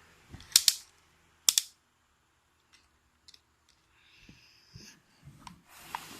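Two loud, sharp plastic clicks, about half a second and a second and a half in, then a few faint ticks and soft rustling: a plastic toy excavator being handled.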